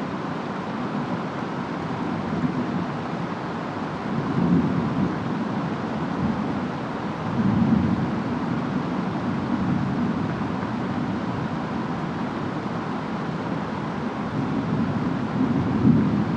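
Steady rain with low rumbles of distant thunder, swelling about four seconds in, again around eight seconds, and near the end.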